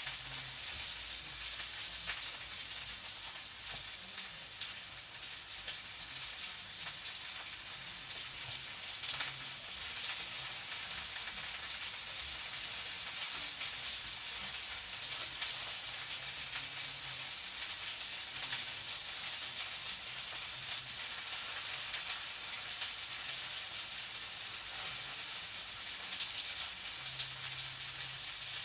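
Food frying in a pan: a steady sizzling hiss with many small crackles and pops.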